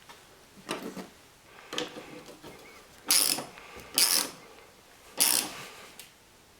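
Socket ratchet clicking in five short strokes about a second apart, the last three loudest, as a wiper arm's nut is tightened down.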